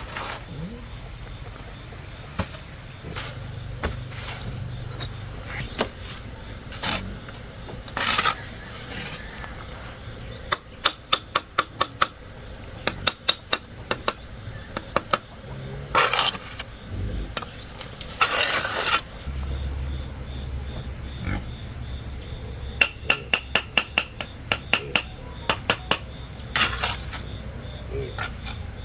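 Building work: quick runs of hammer blows and knocks, with several short scraping sounds of about half a second to a second, over a steady chirring of insects.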